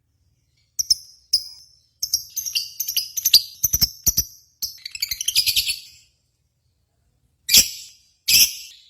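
Lovebird chirping in shrill high-pitched bursts: two single chirps, then a rapid run of chirps for about four seconds, then two loud shrieks near the end.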